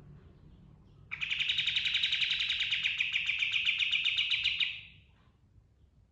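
Kapas tembak (white-shouldered triller) singing one rapid rolling trill, a fast even string of notes that starts about a second in and lasts about three and a half seconds before fading out.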